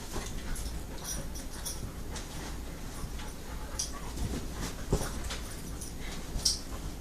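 Two dogs play-wrestling: scuffling and rustling with scattered light clicks and a soft thump about five seconds in.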